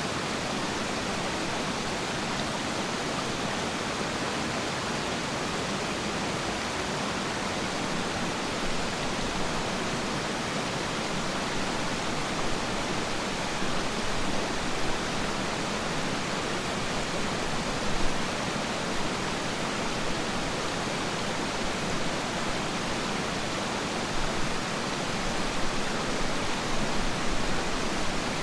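Waterfall: a steady, even rush of falling water, swelling briefly now and then.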